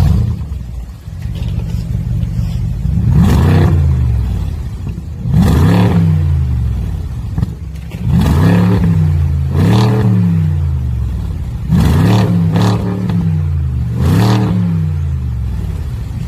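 BMW F02 750Li's twin-turbo V8 idling through a valved variable exhaust and being blipped about seven times, each rev rising quickly and falling back to idle, some in quick pairs.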